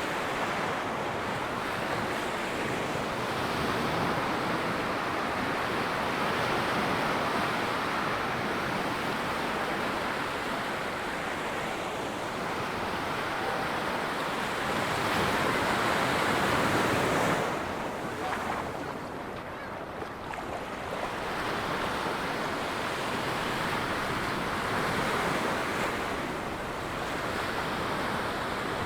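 Ocean surf breaking and washing up the beach: a steady rush that swells to its loudest about fifteen seconds in, drops away suddenly, then builds again with the next waves.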